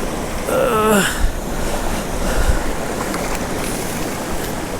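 Mountain creek water rushing steadily over rocks. About half a second in, a person gives a short wordless exclamation that falls in pitch.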